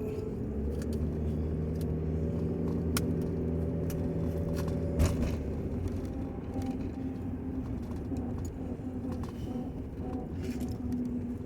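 Steady low hum of a running vehicle, with a single sharp click about five seconds in, after which the hum's pitch pattern changes.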